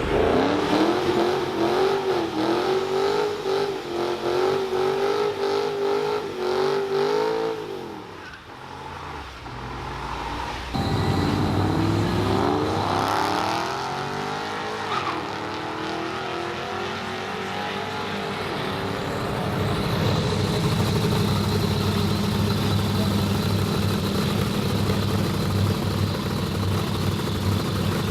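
Drag-racing car engines. First an engine is held at high revs for several seconds and then dies down. Next an engine comes in suddenly and accelerates hard, its pitch rising through a couple of gear changes, before settling into a steady, noisier running sound.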